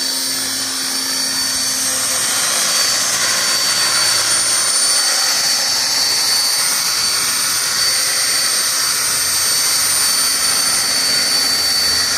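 Align T-Rex 500 electric RC helicopter in flight: a steady high-pitched whine from the motor and gears over the rushing of the rotor blades.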